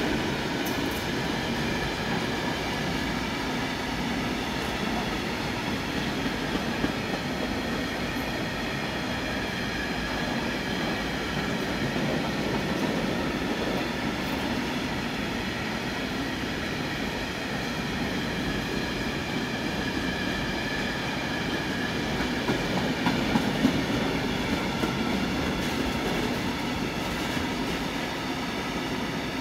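A train rolling past: a steady noise of wheels on rails, with faint steady tones and a few light clicks.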